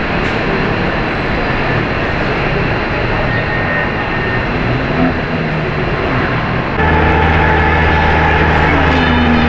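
Jet airliner engines running with a steady, loud noise. About seven seconds in it jumps abruptly to a louder hum with steady low tones.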